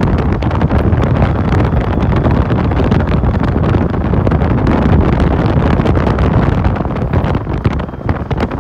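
Heavy wind buffeting the microphone on a moving motorcycle taxi, mixed with the motorcycle's running and road noise.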